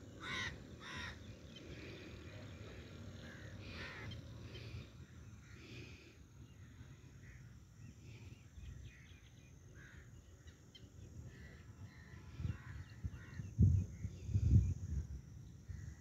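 Birds calling, harsh calls that come near the start and again around four and six seconds in, over faint outdoor background. Near the end a few loud, low thumps break in.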